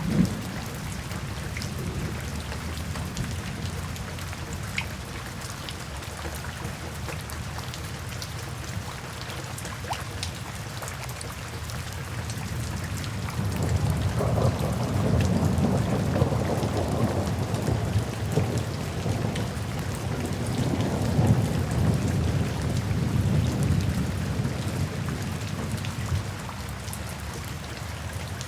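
Steady rain with fine patters of drops. About halfway through, a long low roll of thunder swells up, rumbles for over ten seconds and fades away near the end.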